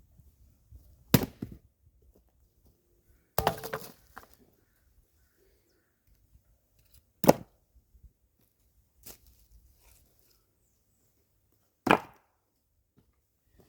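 Axe strokes splitting firewood: five sharp, separate chops a few seconds apart, the second one with a longer cracking tail as the wood gives way.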